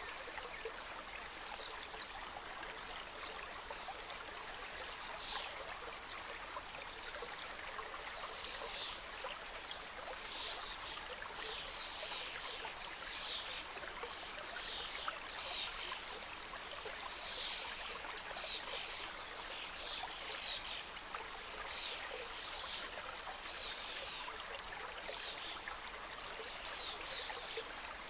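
Mountain stream flowing and cascading over rocks, a steady rushing and trickling. From about five seconds in, a run of short, high chirps sits over it, typical of small birds singing.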